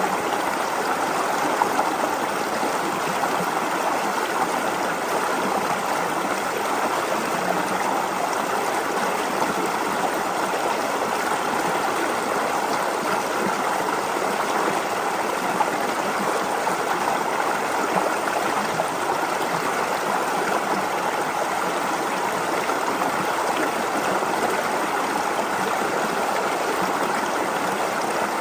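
Small stream flowing steadily over stones, a continuous babbling of water.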